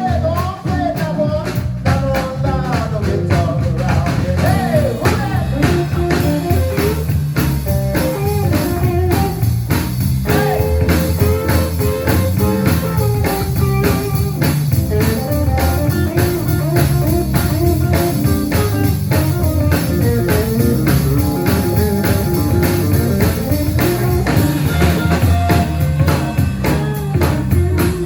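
A live band playing a blues number, with guitar over a steady drum-kit beat.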